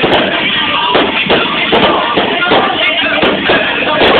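Fireworks going off: a dense, continuous run of bangs and crackles, several a second.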